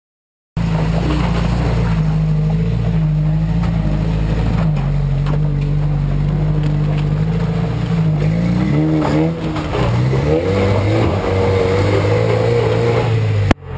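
Toyota 4x4 engine working under load as it climbs a waterfall trail off-road, revs rising and falling. It starts suddenly about half a second in and breaks off abruptly near the end.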